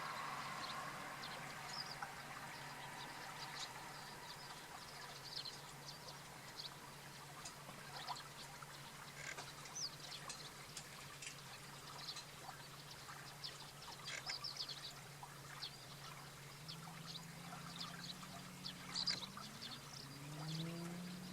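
Faint outdoor sound of water trickling, with scattered short high-pitched bird chirps and calls over a steady low hum. A low tone rises near the end.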